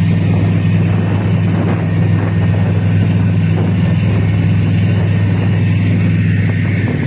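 A vehicle's engine and road noise: a loud, steady low drone at an unchanging pitch.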